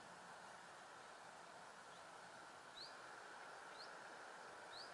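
Near-silent outdoor quiet with faint, short rising chirps about once a second from the second second on, a small bird calling.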